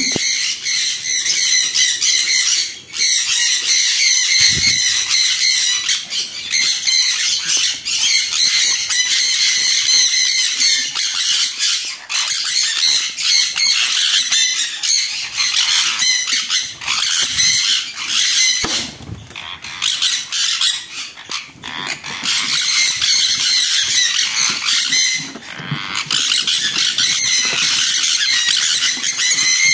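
Conures, Jenday, sun and green-cheeked together, screeching almost without a break in alarm as someone approaches their breeding box, which holds a chick.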